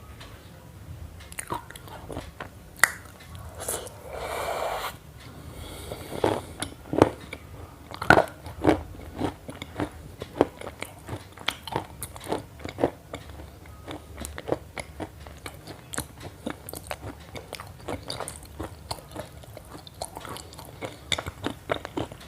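Crunchy chewing and biting: a rapid, irregular run of sharp crunches, with a brief burst of noise about four seconds in.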